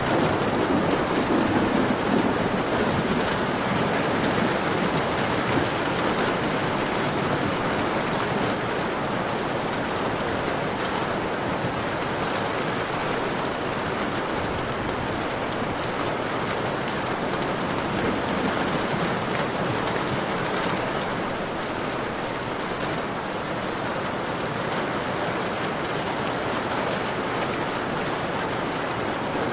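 Steady, heavy rain falling on a window, with a low rumble of thunder swelling in the first few seconds.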